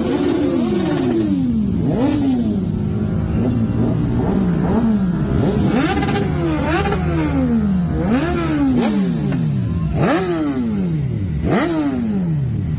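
Sport motorcycle engine revved in a series of short throttle blips, each climbing sharply in pitch and falling back toward idle.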